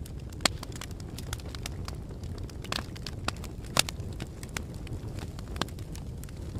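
Fire crackling: a steady low rumble of flames with scattered sharp pops, the loudest about half a second in and just before four seconds.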